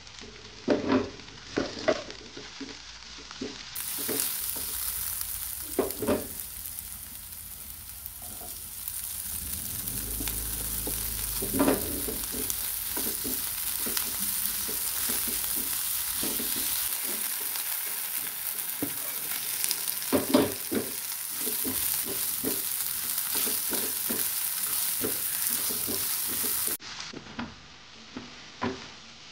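Sliced garlic, shallots and chilies sizzling in oil in a frying pan, stirred with a plastic spatula that knocks and scrapes against the pan. The sizzle starts a few seconds in and cuts off sharply near the end, with scattered spatula knocks throughout.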